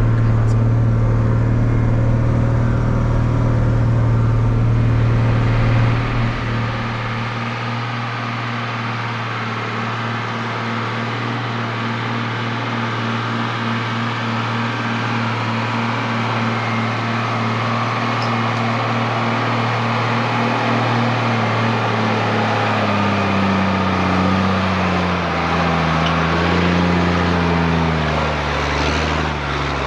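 A 1983 Mercedes-Benz Unimog U1700L's six-cylinder diesel engine pulls steadily under load as the truck drives into a soft sand track. It goes a little quieter about six seconds in, and in the last several seconds its pitch wavers up and down as the engine speed changes.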